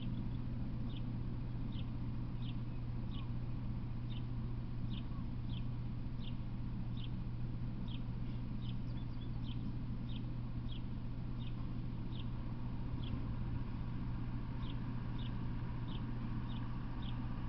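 A bird chirping: short high notes repeated about one and a half times a second, pausing briefly near the end, over a steady low hum.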